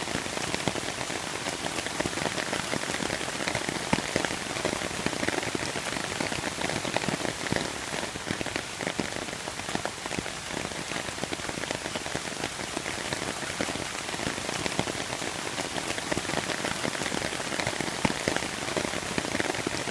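Steady rain falling, with a dense patter of drops striking surfaces.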